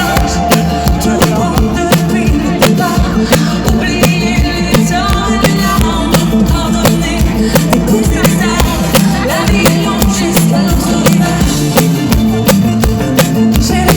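Live rock band playing loud, with a steady drum beat, bass and guitar, recorded from the audience with distorted, overloaded sound.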